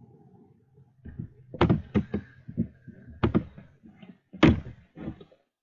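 A series of sharp knocks or thunks, about eight over four seconds, the loudest about a second and a half, three and a quarter, and four and a half seconds in.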